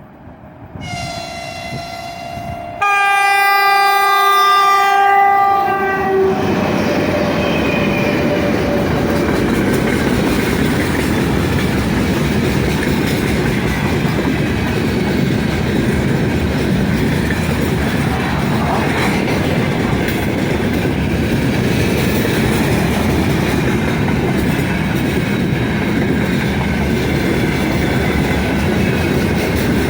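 3ES5K 'Ermak' electric locomotive sounding its horn: a softer tone about a second in, then a loud chord-like blast of about three seconds that drops in pitch as the locomotive passes. A heavy freight train then runs past at speed, a steady loud rumble of wheels on rail.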